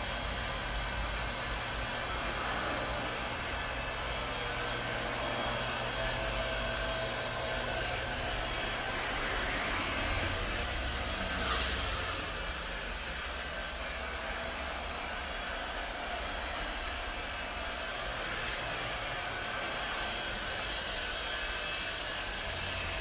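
Cheonhajangsa 8-ton 220 V electric hydraulic log splitter running: its electric motor and hydraulic pump whir steadily as the ram is cycled forward and back to warm up the hydraulic fluid. A short click about halfway through.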